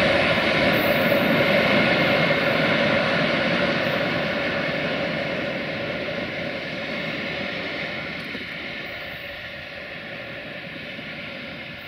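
Tanker freight train rolling past on the rails as its last tank wagons go by and it draws away, a steady rumbling drone that fades gradually. Under it runs the distant drone of the ST43 (060-DA) diesel-electric locomotive working at the head of the train.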